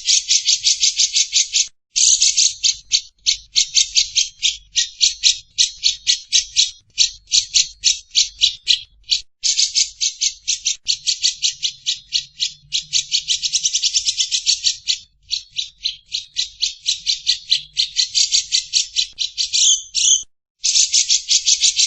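A bird calling in a long, almost unbroken run of short, harsh, rattling notes, several a second, with brief breaks about two seconds in and near the end.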